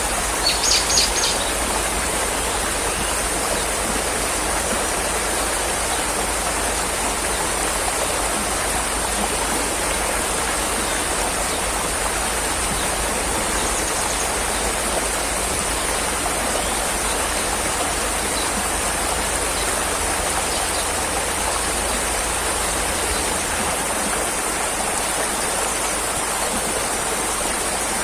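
Steady rushing of running water, an even unbroken wash of sound. A few short high chirps come about a second in.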